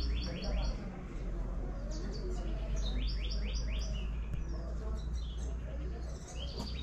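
A songbird repeating a rapid run of five or six short, high chirps, a new run about every three seconds, over a low steady rumble.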